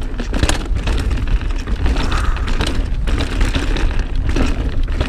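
Mountain bike descending a dirt trail at speed: tyres rolling over the ground with irregular rattles and clicks from the bike, over a steady rumble of wind on the helmet camera's microphone.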